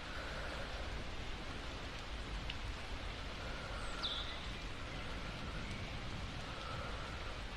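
Steady rain, an even hiss of falling drops, with a short falling chirp about four seconds in.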